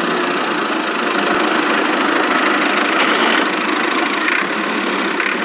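Mini toy tractor driving on, making a steady engine-like running noise.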